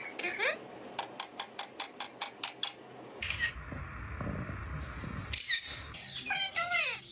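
A pet parrot giving short, high, pitch-bending squawks and chirps, with a quick run of about a dozen clicks, around six a second, in the first few seconds. Partway through, a low rumbling noise comes in for about two seconds.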